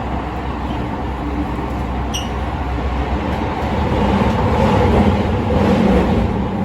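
Tokyo Metro Chiyoda Line 16000 series subway train running through the tunnel between stations, heard from inside the car: a steady rumble of wheels on rail that grows louder about four seconds in. A brief high squeak comes about two seconds in.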